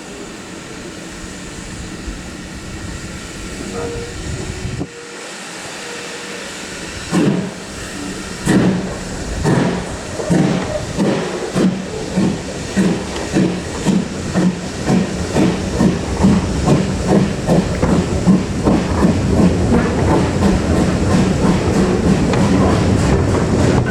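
Steam locomotive, LMS Ivatt 2MT 2-6-2T tank engine, starting its train away: a steady hiss at first, then about seven seconds in the exhaust beats begin, slow at first and quickening to about two a second as the train gathers speed.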